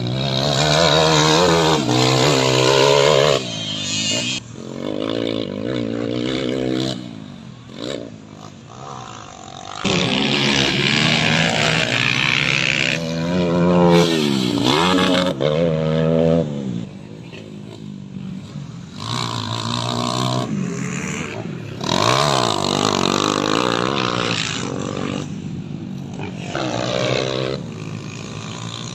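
Motocross dirt bike engine revving hard, its pitch repeatedly climbing and dropping back as the throttle opens and closes.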